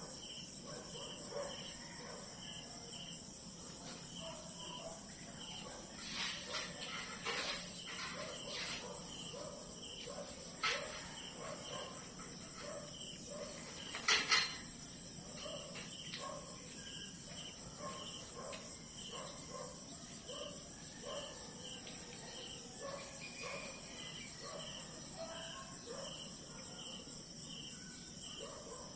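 Crickets and other insects chirping and trilling: a steady high-pitched buzz with short chirps repeating a couple of times a second. A few sharp clicks break in partway through, the loudest a quick pair about halfway.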